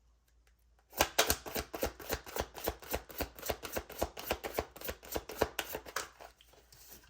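A deck of tarot cards being shuffled by hand: a quick, even run of card slaps and clicks, about six a second, starting about a second in and dying away near the end.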